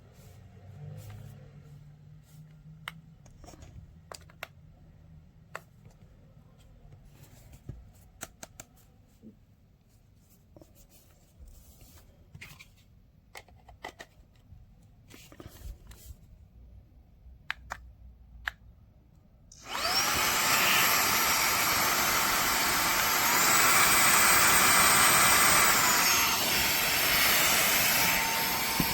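Scattered light clicks of a small plastic device being handled, then a cordless handheld vacuum-blower's motor switches on about two-thirds of the way in with a loud, steady whine. A few seconds later the whine steps up in pitch and gets louder, as at a higher speed setting, then drops back down.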